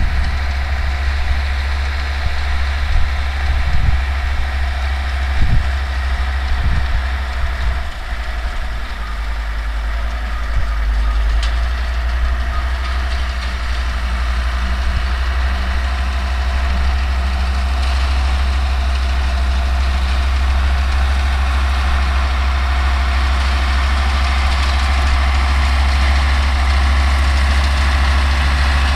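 Older Deutz tractor's diesel engine running steadily while it pulls and drives a New Holland 644 round baler, with the baler's machinery adding to it. There are a few low thumps in the first few seconds, and the sound grows gradually louder until about halfway through, then holds steady.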